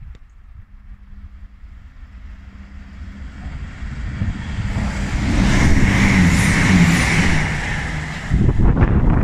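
Diesel multiple unit train approaching along the track, its engine note and wheel-on-rail rumble and hiss growing steadily louder to a peak about two-thirds of the way in. Near the end the sound cuts abruptly to a different, gusty low rumble.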